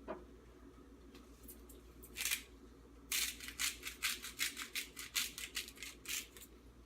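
Spice shaker shaken over food: one short shake, then a quick run of sharp rattling shakes, about five a second for some three seconds.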